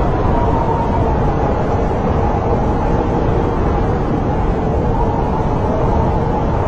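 Snowstorm wind blowing steadily, a deep continuous rush with a faint wavering whistle that slowly rises and falls.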